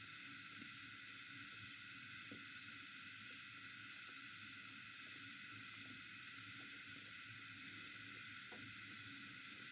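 Faint steady insect chirring, pulsing about three times a second, with a few faint soft clicks.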